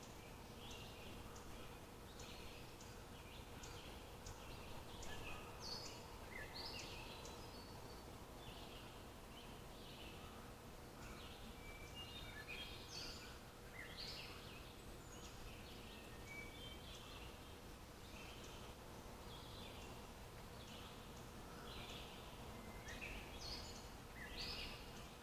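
Several birds chirping and calling, many short high notes overlapping irregularly throughout, over a faint steady background hiss.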